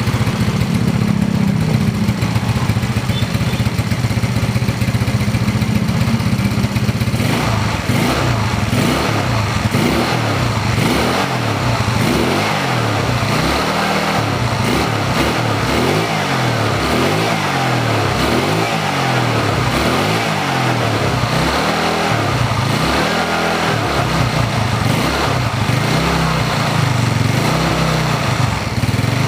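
Yamaha Mio scooter's single-cylinder four-stroke engine, bored up to 130cc, running through the stock factory muffler. It idles steadily, then from about seven seconds in the throttle is blipped over and over, the revs rising and falling every second or two. Near the end it settles back toward idle.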